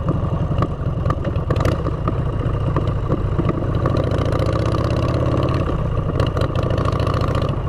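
Motorcycle engine running under way through aftermarket exhaust pipes, a steady deep rumble whose pitch rises a little partway through.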